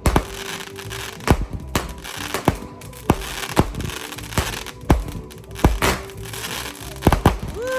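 Fireworks display: about a dozen sharp bangs going off at irregular intervals, over a continuous crackle.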